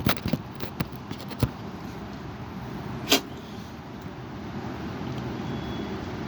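Strong gusting wind blowing over the microphone, with a cluster of sharp knocks in the first second and a half and a louder knock about three seconds in.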